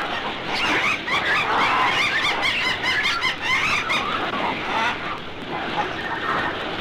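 A flock of birds attacking, many shrill squawks and shrieks overlapping in short rising-and-falling cries, thinning out after about four seconds.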